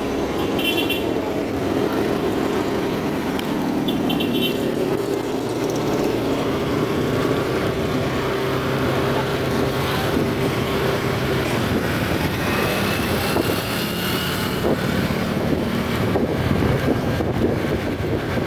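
Motorcycle on a ride through street traffic: its engine runs steadily under road and traffic noise. Two short high-pitched beeps come near the start.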